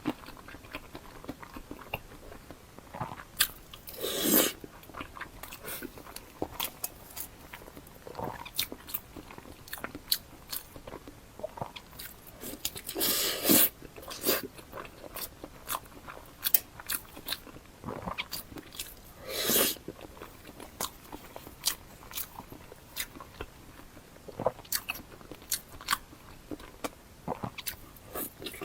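Close-miked eating sounds: wet chewing, biting and mouth smacks in a stream of short clicks, with three longer, louder noisy bursts about 4, 13 and 19 seconds in.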